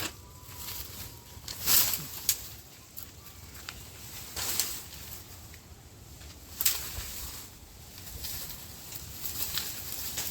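Scattered rustles and knocks from garden clearing work, handling vines and bamboo poles, with the loudest about two, four and a half and seven seconds in.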